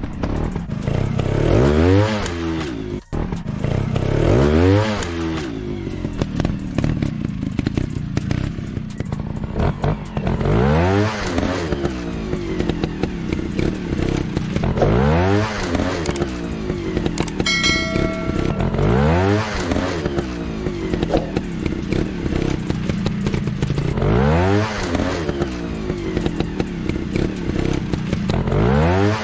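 Dirt-bike engines revving over and over, each rev rising and falling in pitch every few seconds over a steady engine drone. A short steady tone sounds once, past the middle.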